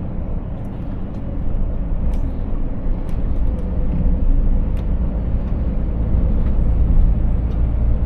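Scania 500S truck's inline six-cylinder diesel and road noise while driving: a steady low rumble that grows a little louder about a second and a half in.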